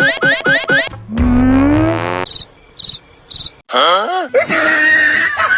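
A string of cartoon sound effects: quick rising chirps about four a second, then a long upward slide about a second in, three short high beeps, and a warbling up-and-down glide followed by busy chattering sounds near the end.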